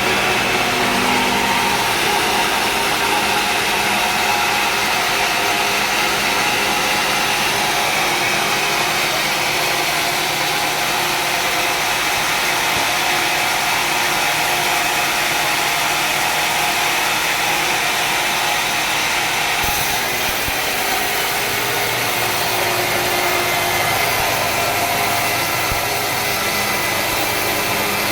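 Sawmill engine running steadily, with the sound shifting abruptly about two-thirds of the way through.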